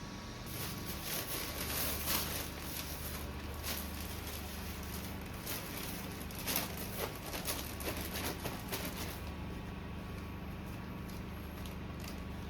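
Irregular rustling and light crackling, as of something being handled, from about half a second in until about nine seconds in, over a steady low hum.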